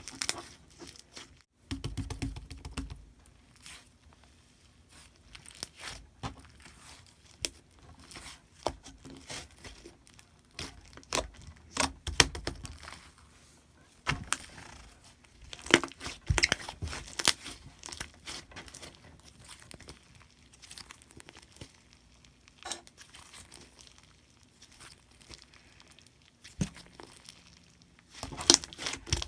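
Paper or plastic being handled close up: irregular crinkling and tearing with small sharp clicks and taps, in bursts with quieter gaps between.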